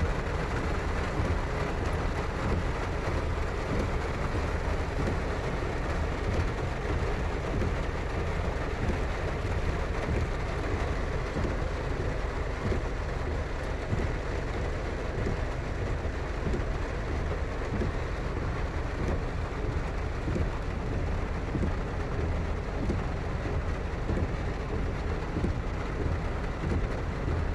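Heavy rain falling in a steady, unbroken hiss, with a constant low rumble underneath.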